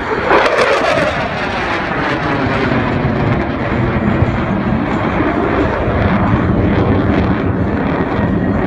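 F-16 fighter jet passing low and fast: a sudden loud onset just after the start, its whine sliding down in pitch as it goes by, then a steady jet rumble.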